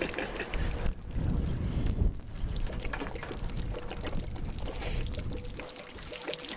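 Water gushing and splashing out of the drain-plug hole at the bottom of an RV water heater, the 6-gallon tank emptying under a little pressure.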